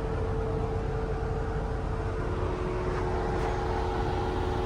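Vehicle idling: a steady low rumble with a constant hum.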